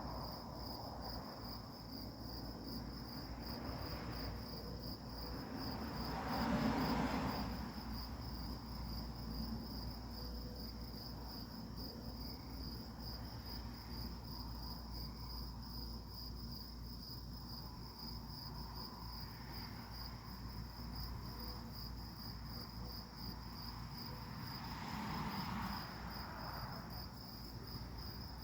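Crickets chirping steadily in a continuous high trill. Twice, about seven seconds in and again near the end, a louder swell of noise rises and fades over a second or two.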